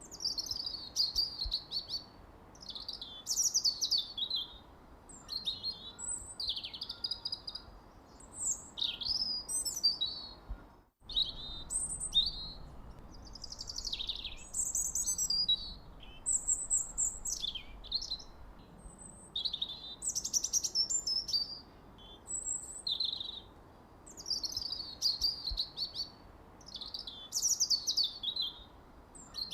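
Songbirds chirping: a quick, continuous string of short high chirps and trills, many sliding down in pitch, with a brief break about eleven seconds in.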